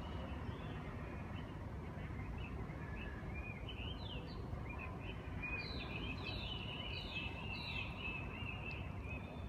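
Small birds chirping, a run of quick high descending notes and a short trill starting a few seconds in and stopping near the end, over a steady low background rumble.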